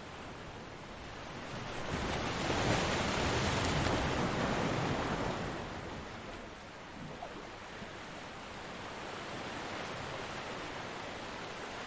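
Ocean waves breaking on a beach: one wave swells up a second or two in, washes in loudest for a few seconds, then recedes, and the next begins building near the end.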